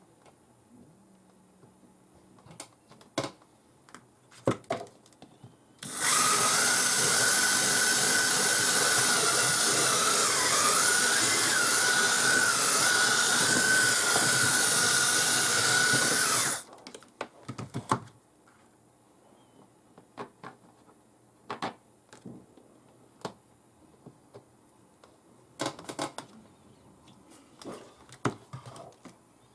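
A handheld power tool runs for about ten seconds with a steady whine that wavers briefly midway as it takes load. Light knocks and clicks of handling come before and after.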